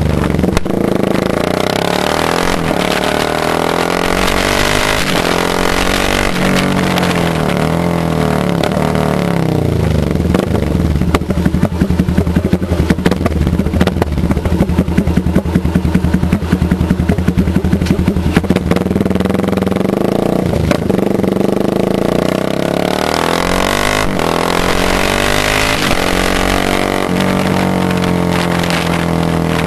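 Motorcycle engine running and being revved, its pitch rising and falling repeatedly. In the middle it holds a steadier speed with a rough, pulsing beat.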